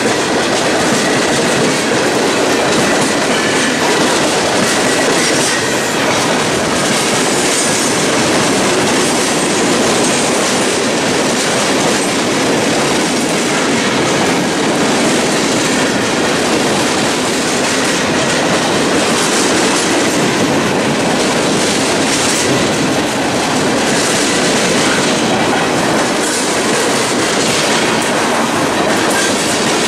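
Freight train of tank cars passing close by, its steel wheels rolling over the rails in a steady, loud rumble.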